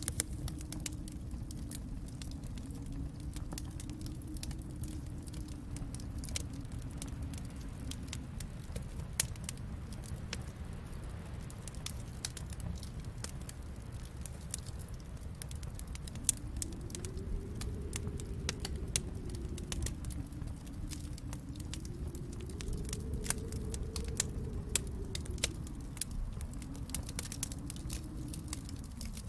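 Wood fire crackling, with frequent sharp pops and snaps over a low rumble that slowly swells and fades.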